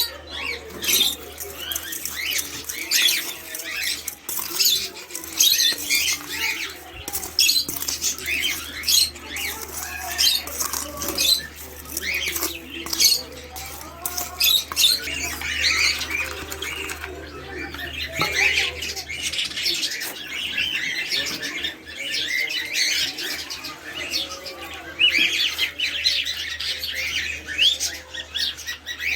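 A group of small pet cage birds chirping and twittering, their many short calls overlapping with no pause, over a low steady hum.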